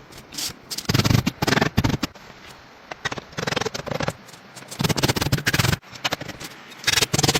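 Rapid clattering knocks and crackles in about five bursts, each up to about a second long.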